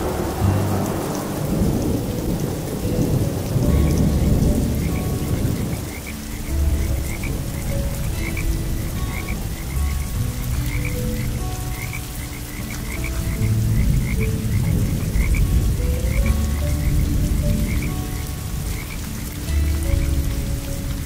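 Steady rain with thunder rumbling through the first few seconds, and frogs croaking, their short calls repeating rapidly from about six seconds in.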